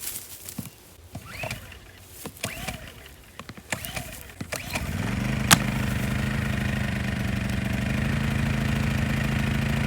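WEN 56203i 2,000-watt inverter generator being started: a few seconds of clicks and handling noise, then about halfway through the engine catches and settles into a steady run.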